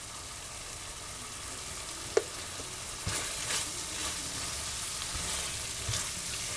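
Pork filling sizzling in a frying pan while being stirred, a utensil scraping the pan repeatedly in the second half, with one sharp clink about two seconds in.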